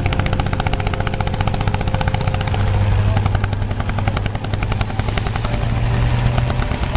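Vintage tractor engine running with a fast, even chugging exhaust beat over a steady low drone, a little louder around the middle.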